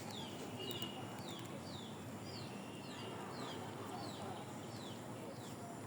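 A bird repeating a short, high, falling chirp about twice a second, steadily throughout, over a low background murmur.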